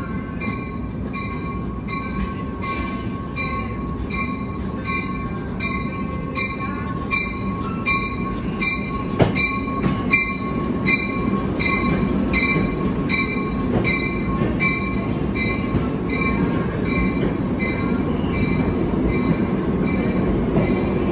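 NJ Transit commuter train pulling into the platform, its bell ringing steadily about one and a half strikes a second over the rumble of the rolling Comet coaches and a steady high squeal from the wheels. The rolling noise grows louder toward the end.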